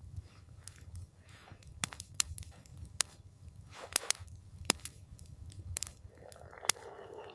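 Campfire burning, with irregular sharp crackles and pops from the burning wood over a low steady rumble. A soft hissing swell rises near the end.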